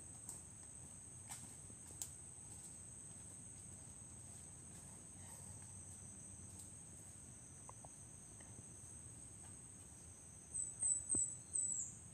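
Steady high-pitched insect chorus, typical of crickets, with a few faint clicks. Near the end come four short, loud high chirps, the last one dropping in pitch.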